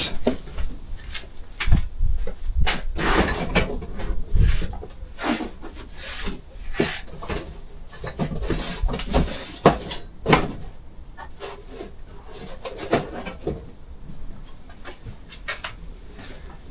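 Irregular knocks and scraping strokes, as of things being handled and moved around. No motor runs.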